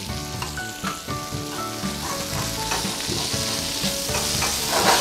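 Chicken pieces and green seasoning sizzling in hot oil in a stainless steel frying pan, turned with tongs; the sizzle swells louder near the end. Soft background music plays underneath.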